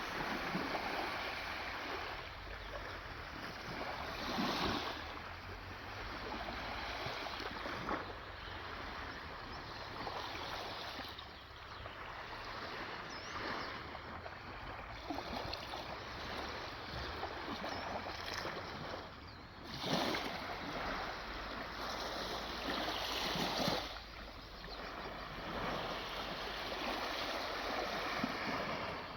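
Moving water: a steady rush with louder swells every few seconds, like waves washing in, over a low rumble.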